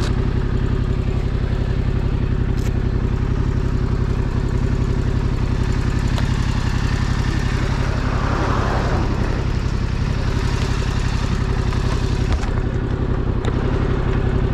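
Yamaha sport motorcycle engine idling steadily at an unchanging speed. About eight seconds in, the noise of a passing vehicle swells and fades over it.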